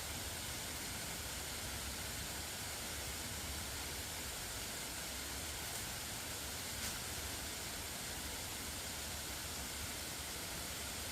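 Steady, even hiss with a single faint click about seven seconds in.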